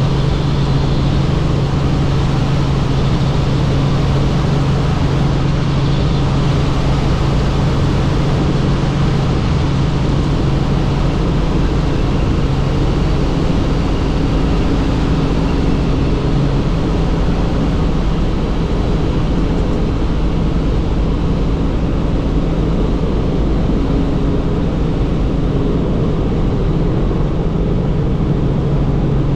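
Helicopter rotor and turbine engine running steadily: a loud, constant drone with a low hum that weakens somewhat about halfway through.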